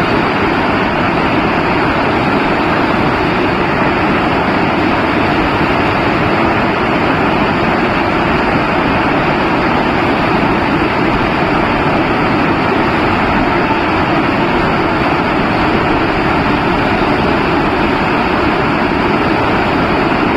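Heavy rain falling as a steady, even hiss that does not change.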